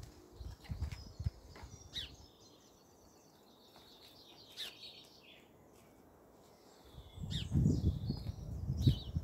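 Small birds chirping, in short high calls scattered across a quiet garden ambience. Low muffled thumps and rumbling come in right at the start and again from about seven seconds in, to the end.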